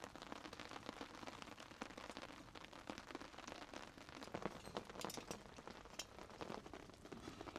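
Rain falling in a steady patter of many small drops, with a few louder single drips about halfway through.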